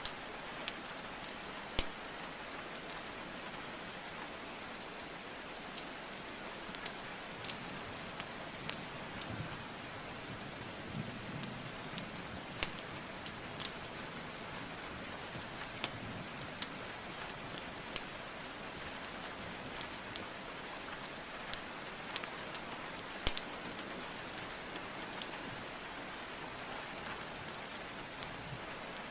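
Steady rain hiss with a wood fire crackling over it: irregular sharp pops and snaps from the burning logs.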